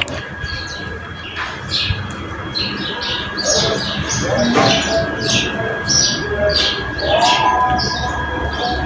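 Songbirds chirping in a busy chorus of short, quick high notes, with a few lower calls near the end, over a steady low background rumble.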